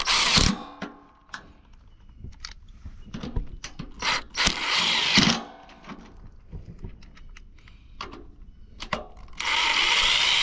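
Ratchet wrench run in three bursts of rapid clicking as bolts are run into the aluminum pergola headers, with scattered knocks and clinks of the metal parts in between.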